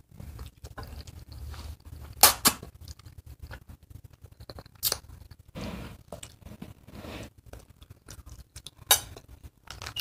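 Close mouth sounds of a person eating spaghetti: chewing, with a few sharp clicks about two, five and nine seconds in.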